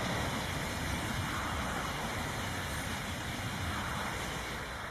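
High-speed train passing at speed: a steady rushing of wheels on rail and air along the train, easing off slightly near the end.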